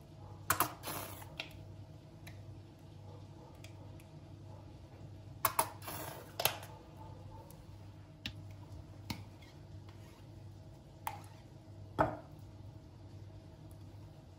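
Scattered light clicks and knocks of objects being handled, in two short clusters and then single clicks every second or two, over a low steady hum.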